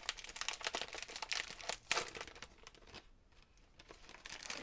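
Thin plastic sleeves and packaging crinkling as they are handled: a rapid crackling rustle for about two seconds with one sharper crackle near the middle, then quieter, sparser handling.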